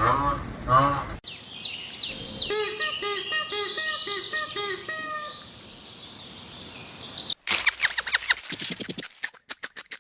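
Bird calls in several short cuts: a call ends abruptly about a second in, then a run of evenly repeated short chirps, then fast chattering chirps from about three-quarters of the way through.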